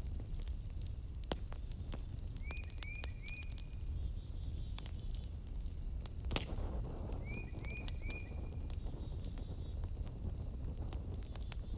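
Wood fire crackling in a fireplace: scattered sharp pops over a steady low rumble, with a louder snap about six seconds in. A short three-note chirp sounds twice, about two and a half and seven and a half seconds in, over a steady faint high whine.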